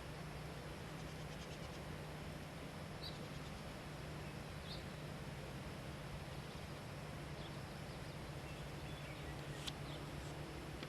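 A couple of short, faint bird chirps, a second or two apart, over a steady hiss and a low hum, with a single sharp tick near the end.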